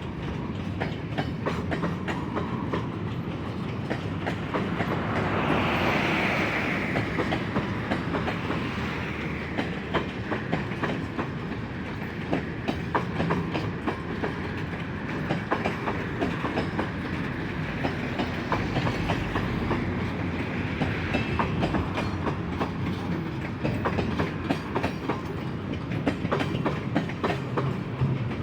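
Freight train cars rolling past, their wheels clicking over the rail joints in an irregular run of clacks, with a brief higher-pitched wheel or flange sound about six seconds in.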